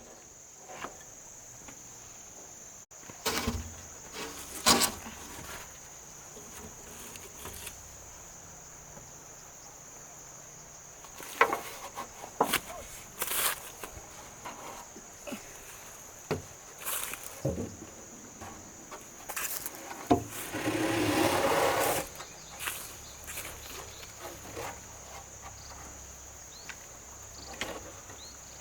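Scattered wooden knocks and clatter, with a steady high insect drone throughout. A noisy rustling burst of about two seconds comes about two-thirds of the way through.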